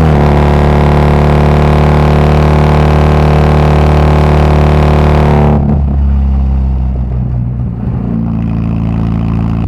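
Volkswagen Gol G2's AP four-cylinder engine through a straight-through exhaust (escape direto), pulling loud under throttle at steady revs. About five and a half seconds in the throttle is lifted and the exhaust falls to a quieter, rougher note.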